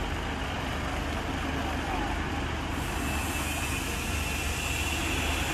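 Steady vehicle road noise: a low engine rumble under a wide hiss of tyres and wind, growing brighter about three seconds in.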